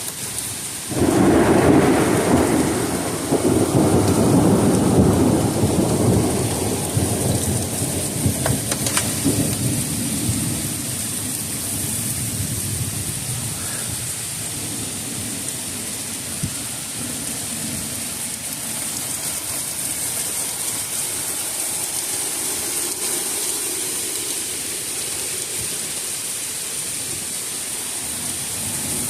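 A thunderclap about a second in, rumbling and slowly fading over the next several seconds, over steady rain from a thunderstorm.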